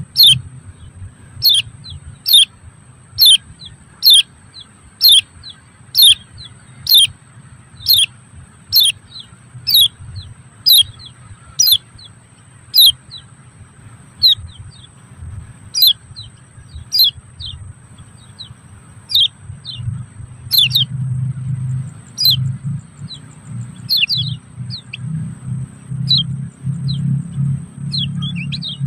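A bird chirping: loud, short, high chirps that sweep downward, about one a second at first, then less regular after about 13 s. A thin high steady tone runs underneath, and a low rumble grows louder after about 20 s.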